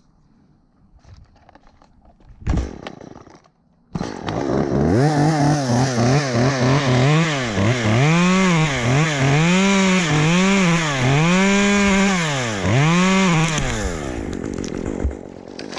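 A short knock about two and a half seconds in, then a chainsaw starts about four seconds in and is revved up and down repeatedly without cutting, settling to an idle near the end.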